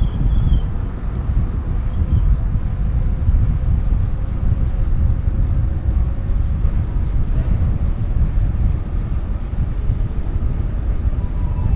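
Wind buffeting a helmet-mounted action camera's microphone while riding a bicycle along a road, a steady low rumble that rises and falls.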